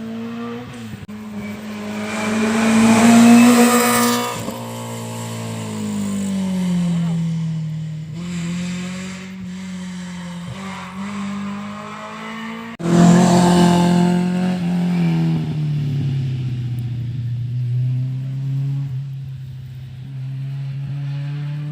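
Rally cars passing at speed, engines at high revs with the engine note rising and falling. The loudest moments come about three seconds in and again from about thirteen seconds, where the sound starts abruptly.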